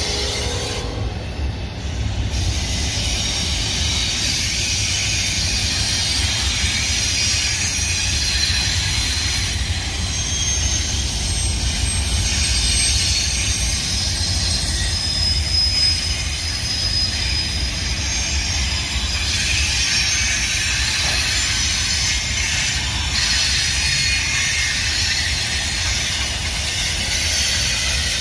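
Union Pacific double-stack intermodal train rolling by: a steady rumble of wheels on rail, with high wheel squeal coming and going over it.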